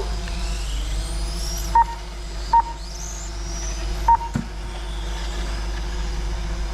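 Large-scale RC superbikes racing, their motors whining and rising in pitch as they accelerate, over a steady low hum. Three short electronic beeps sound about two, two and a half and four seconds in.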